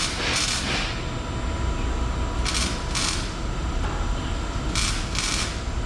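Mechanical workshop noise: short hissing bursts in pairs, about every two and a half seconds, over a steady low rumble.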